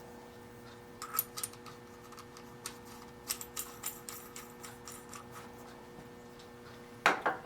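Light, scattered metallic clicks and taps of small machine-shop tooling and parts being handled, with a louder clatter near the end, over a steady electrical hum.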